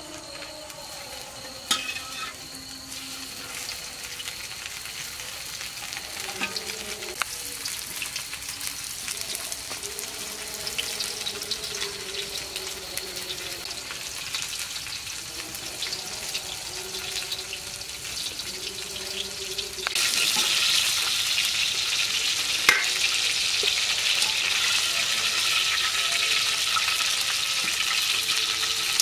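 Chicken pieces frying in hot oil: a steady sizzle that gets suddenly louder about two-thirds of the way through, with a couple of sharp knocks.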